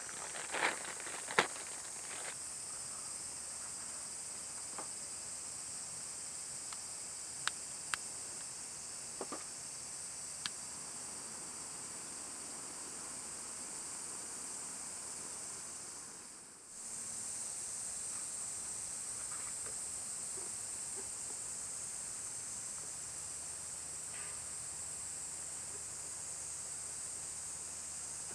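Steady high-pitched insect drone in the forest, with a few light clicks and knocks in the first ten seconds; the drone breaks off for a moment a little past halfway, then carries on.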